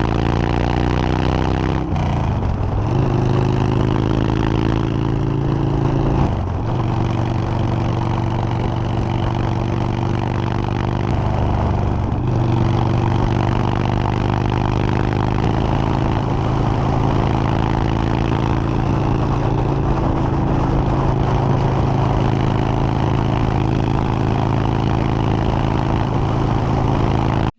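Motorcycle engine pulling away and shifting up through the gears. Its pitch rises and then drops at each shift, about two, six and twelve seconds in, after which it runs steadily at cruising speed.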